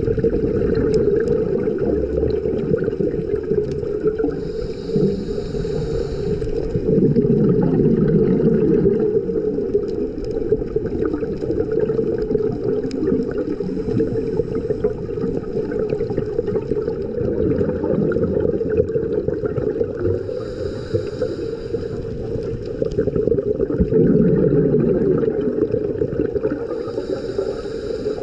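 Muffled underwater sound picked up through a camera's waterproof housing, with a scuba diver breathing through a regulator: a hiss on each inhale and a bubbling rush on each exhale, every several seconds.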